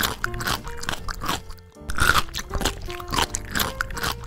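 Crisp, crunchy biting and chewing of food, a dense run of crackling crunches in quick clusters.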